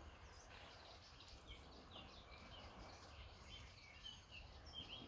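Faint birds chirping, many short high calls in quick succession.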